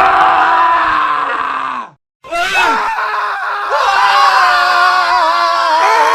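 Men screaming: one long scream breaks off about two seconds in, and after a short silence a different scream starts, wavering in pitch.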